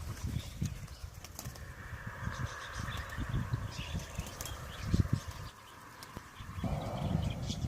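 Birds: irregular wing-flapping flutters and low thuds, with faint high chirps now and then.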